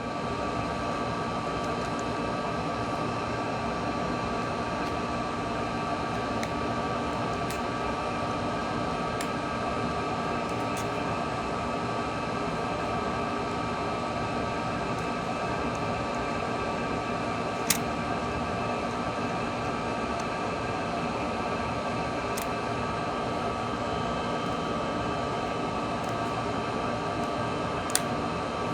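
Steady mechanical hum of room ventilation, a fan-like whir with a few fixed tones, broken by a handful of short sharp clicks, the loudest about halfway through and again near the end.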